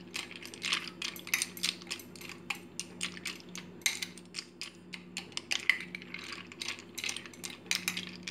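A spoon stirring raw pasta with milk and vegetables in a bowl, clinking and scraping against the bowl in quick, irregular clicks.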